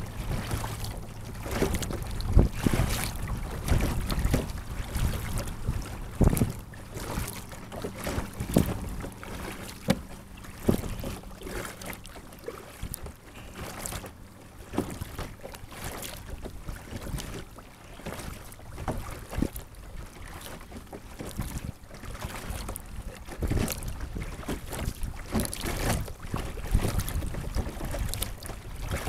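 Paddle strokes and water splashing and dripping around a sit-on-top kayak as it is paddled, with some wind on the microphone.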